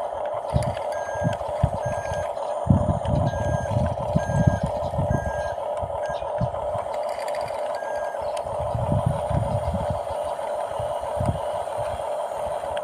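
RC bulldozer running with a steady mechanical hum while a reversing beeper sounds a series of short beeps from about one to eight seconds in, over irregular low rumbling from the machine working in sand.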